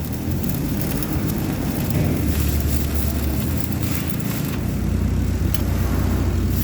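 Stick arc welding: a steady low hum from the welding machine under load, with crackling from the arc. The hum grows heavier about two seconds in and again about halfway through.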